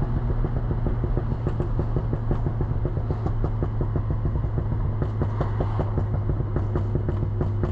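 Volkswagen Polo GTI engine running steadily at an even pitch, with a rapid, regular ticking over the low engine note.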